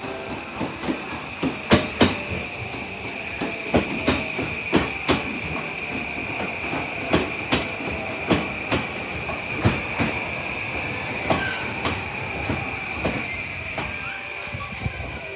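An E231-series commuter train rolling along the platform, its wheels clacking over rail joints in paired knocks about once a second, under a steady high-pitched squeal.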